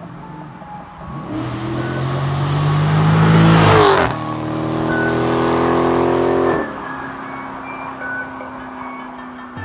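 Dodge Charger Scat Pack's 392 HEMI V8 accelerating past: the engine note climbs and grows louder to a peak about four seconds in, then drops sharply in pitch as the car goes by. It holds a steady note while pulling away, then steps down and quietens about six and a half seconds in.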